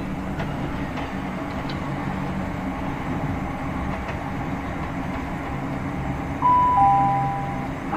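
Saloon of a Class 465/9 Networker electric multiple unit running along, a steady rumble with a low hum and a few faint clicks. About six seconds in, the onboard public-address chime sounds loudly as two falling notes, the lead-in to a passenger announcement.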